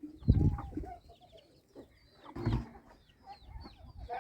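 Chickens clucking and cheeping, with two dull thumps, one just after the start and one about two and a half seconds in.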